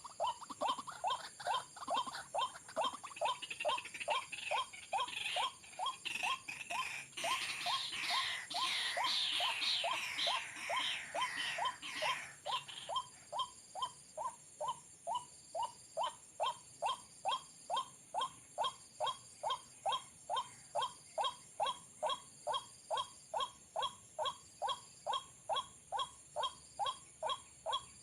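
White-breasted waterhen calls: short, even notes repeated about twice a second. Between about 4 and 12 seconds a harsher, noisier chattering joins in, then the steady notes carry on alone.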